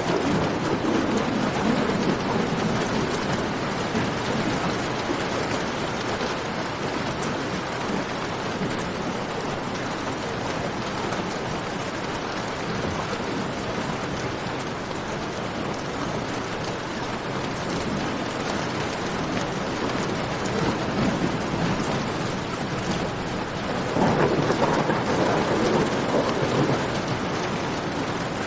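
Steady heavy rain, with a low rumble of thunder swelling near the start and again about 24 seconds in. Faint crackles of a campfire tick through the rain.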